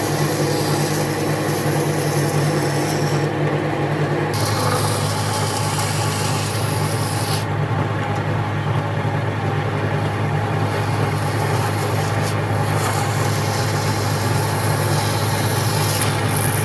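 An electric power tool running steadily against wood, a constant motor hum with a rasping noise over it; the hum shifts pitch slightly about four seconds in as the load changes.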